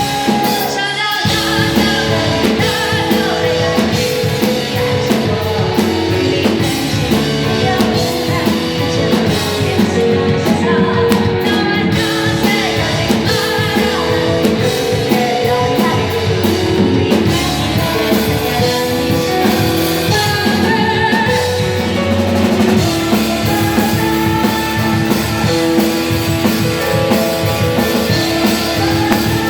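Live rock band playing: drum kit, electric guitar and a singing voice, steady and loud throughout.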